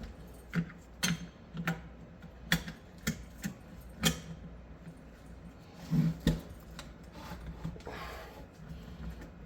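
Steel parts of an SKS rifle clicking and knocking against each other as a part is worked into place during reassembly: irregular sharp clicks for the first few seconds, a louder knock about six seconds in, then a short scrape.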